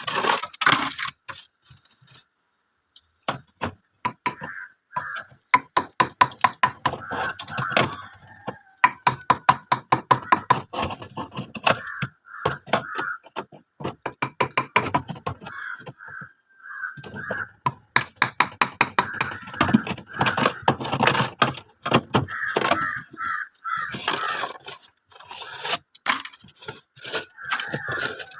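Rapid, repeated sharp knocks and cracks of a tool chipping built-up ice out of a frosted-up freezer compartment, coming in bursts with short pauses.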